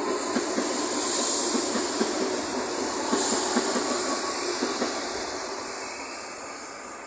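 CPTM electric commuter train passing close by: a steady rushing rolling noise with a quick run of wheel clicks over the rail joints, fading as the last car goes past.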